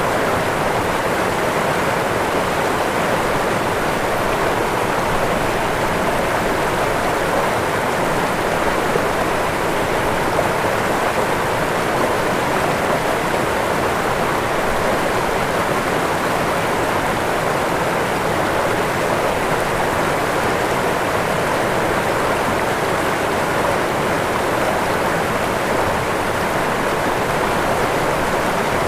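Waterfall: falling water rushing in a steady, unbroken wash.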